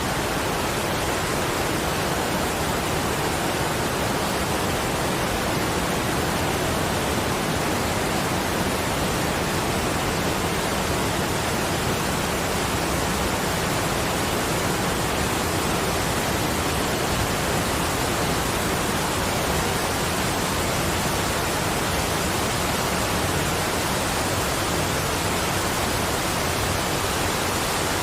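Steady, unchanging hiss of falling water.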